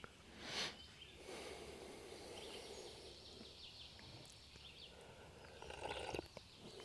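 Faint morning outdoor ambience with scattered short bird chirps in the background, and a brief rush of noise about half a second in.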